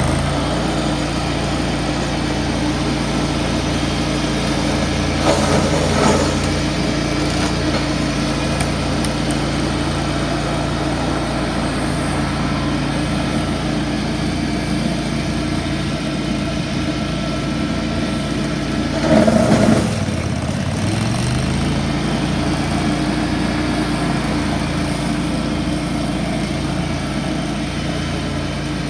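Ventrac 4500Z tractor engine running steadily at working speed, driving the shredder attachment. About a third of the way in, and again around two-thirds of the way, there is a louder rough burst; the second time the engine note sags and recovers, as it does when the shredder takes a heavy bite of brush.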